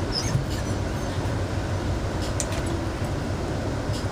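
Passenger train running, heard from inside the coach: a steady low rumble of the wheels on the track, with a few light clicks and rattles.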